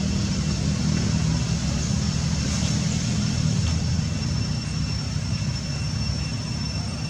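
Steady low engine hum, as from a motor vehicle running close by, with faint steady high-pitched tones above it.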